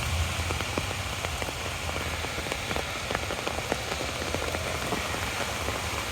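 Steady rain falling, with many separate drop hits ticking close by over an even hiss, and a low rumble underneath.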